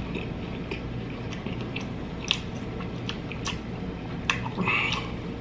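Close mouth sounds of someone chewing a soft deep-fried Reese's peanut butter cup, its chocolate and peanut butter melted: wet smacks and small clicks, irregularly spaced.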